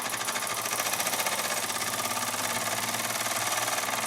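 Burnac Vulcan toy steam engine running steadily, its exhaust chuffing in a fast, even beat of about ten puffs a second.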